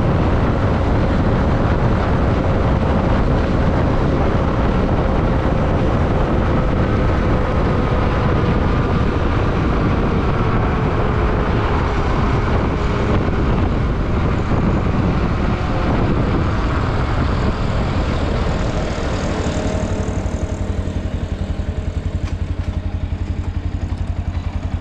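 Yamaha WR155 single-cylinder motorcycle engine running at riding speed, mixed with loud wind rush. Near the end the rush eases and the engine's even low pulsing comes through, as the bike slows.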